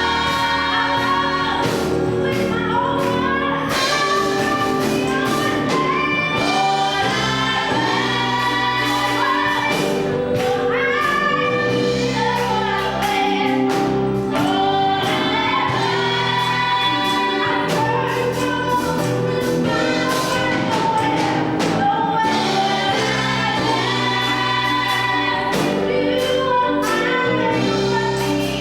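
Gospel choir singing with instrumental backing and percussion hits.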